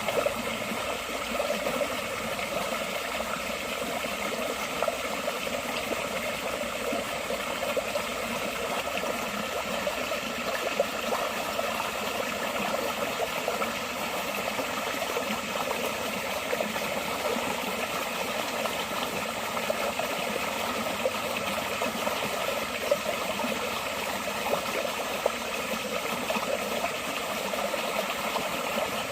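Forest water flowing steadily, a constant rush with small splashes and gurgles scattered through it.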